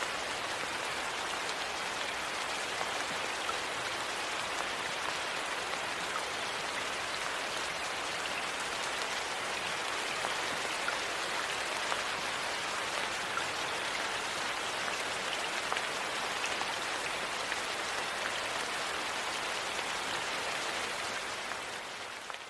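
Steady rain falling, an even hiss with small scattered drop ticks, fading out at the very end.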